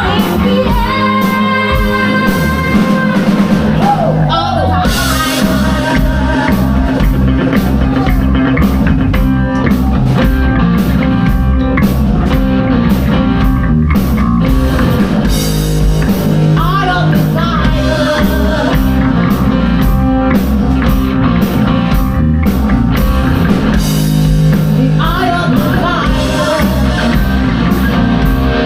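Rock band playing a song live: drum kit and electric guitar, with singing.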